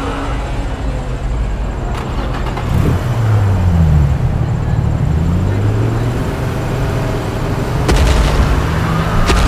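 Dubbed sound effects: a car engine revving, its pitch dipping and climbing in the middle, with sharp bangs about two seconds in and twice near the end.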